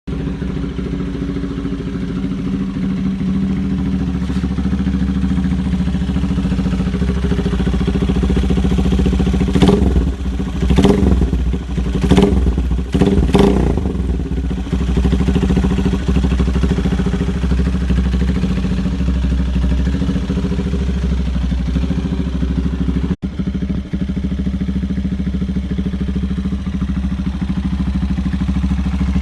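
Demak Skyline motorcycle with an Akrapovic-style 'twin brother' muffler and U-turn exhaust pipe idling. It is blipped five times in quick succession starting about ten seconds in, then settles back to a steady idle.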